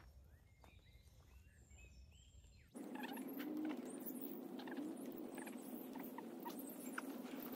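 Faint bird calls. Then, almost three seconds in, a steady hiss with scattered light taps sets in suddenly and becomes the louder sound.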